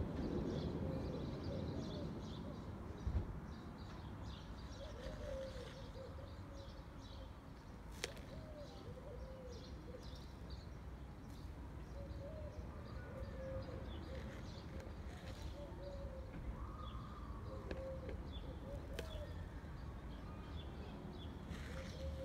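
Birds calling: short, soft warbling calls repeating throughout, with faint high chirps, over a low background rumble. A sharp knock about three seconds in and a light click about eight seconds in.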